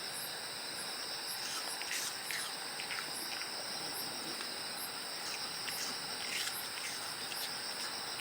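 Steady chorus of insects trilling high-pitched, with a few short faint chirps over it.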